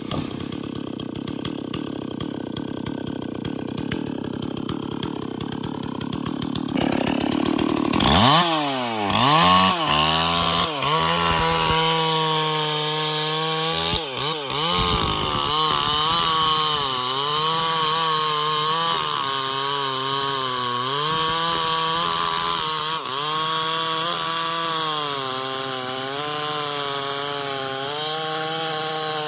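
Stihl MS440 two-stroke chainsaw idling with a rapid low pulsing, then opened up about eight seconds in and cutting into bayur wood. Its engine pitch sags and recovers repeatedly as the chain bites under load.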